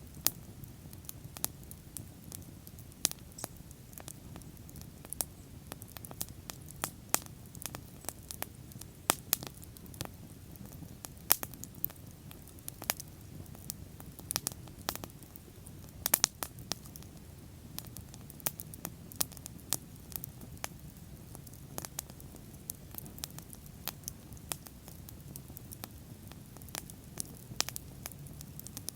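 Wood bonfire burning: irregular sharp crackles and pops, several a second with some much louder snaps, over a low steady rumble of the flames.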